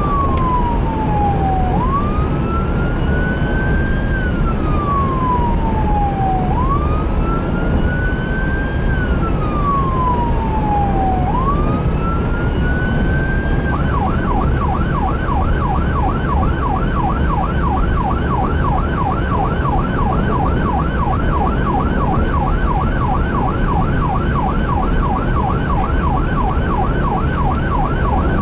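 Emergency vehicle siren sounding a slow rising-and-falling wail, then switching about halfway through to a fast yelp of about three to four sweeps a second, over a steady low rumble of engine and road noise.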